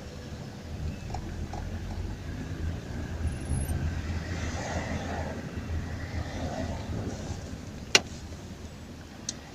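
Daewoo Nexia's engine running at low revs in stop-and-go traffic, heard as a steady low rumble inside the cabin. A single sharp click comes about eight seconds in, and a smaller one near the end.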